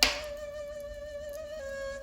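Ney flute holding one long breathy note that steps slightly lower about one and a half seconds in. At the start a single sharp crackle pops from the wood fire.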